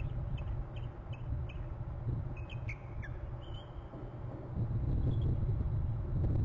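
Short, high bird chirps, several in quick succession in the first two seconds, then a downward-sliding call about three seconds in and a few more chirps later, over a steady low rumble.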